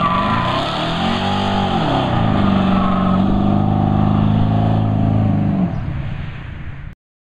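Big-block V8 of a 1964 Chevy pickup street rod revving up and falling back about a second and a half in, then held at high revs for about three seconds, as in a burnout. The revs drop near the end and the sound cuts off suddenly.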